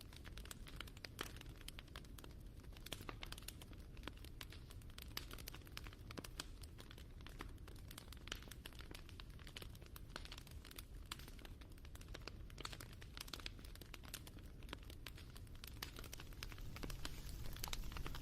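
Crackling wood fire: dense, irregular small pops and snaps over a low rumble, growing louder near the end.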